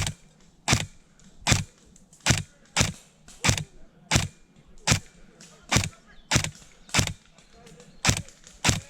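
Airsoft gun firing single shots, about a dozen sharp cracks at an uneven pace of roughly one every half second to second.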